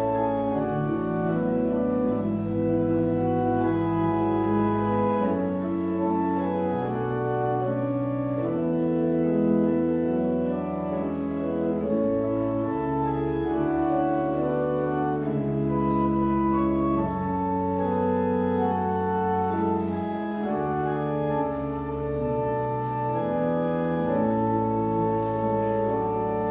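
Organ music: held chords over a bass line that moves every second or two.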